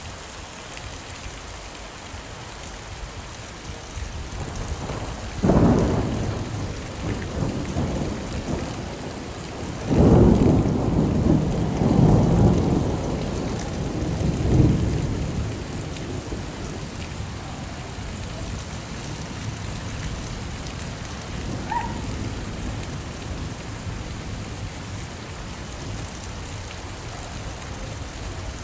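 Steady rain with thunder: a sharp clap about five seconds in, then a longer rolling peal from about ten seconds in that rumbles in swells for several seconds before fading back into the rain.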